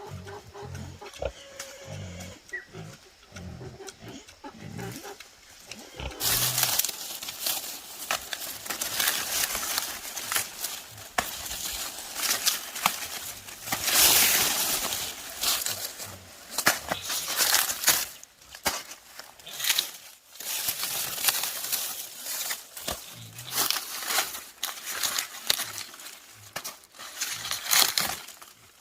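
Wild boars grunting in short low pulses. From about six seconds in, a loud, rough noise with many brief rustles and knocks joins them and stays loudest.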